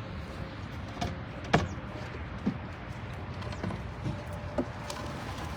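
Release doors on a racing-pigeon transport being knocked open to let the birds out. There is one sharp bang about a second and a half in and several lighter knocks, over steady background noise.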